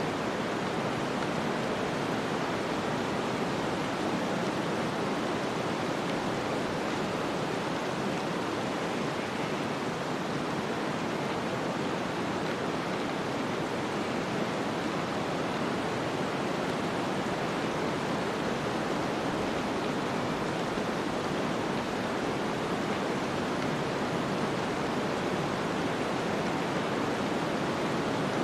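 Snowstorm ambience: a steady, even rushing hiss of wind-driven storm noise, unchanging throughout, with no distinct events standing out.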